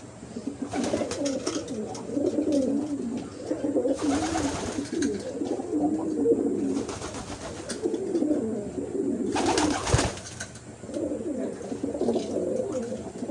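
Several racing pigeons cooing steadily in a loft, the low warbling coos overlapping one another. There are two brief bursts of noise, about four seconds in and near the end.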